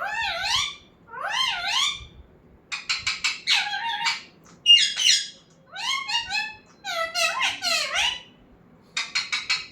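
A pet parrot calling in a series of about seven high, warbling calls that rise and fall in pitch, some opening with a quick stuttering rattle.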